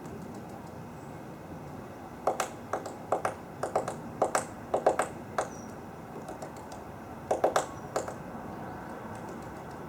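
Great spotted woodpecker pecking: irregular sharp taps, some single and some in quick clusters of two or three, from about two seconds in until about eight seconds in.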